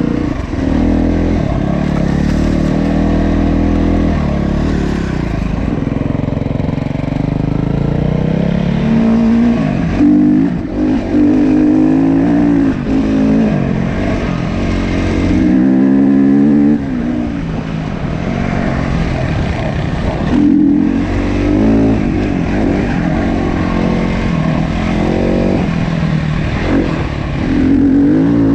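Dirt bike engine running under way, its pitch climbing and dropping again and again as it revs.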